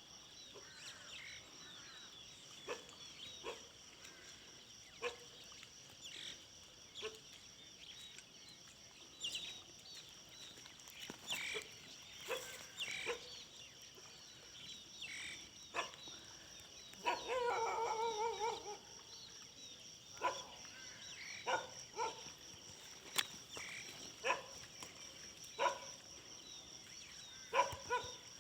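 Dogs barking now and then with short, separate barks. Near the middle comes a longer wavering call of about two seconds. A steady high insect drone runs underneath.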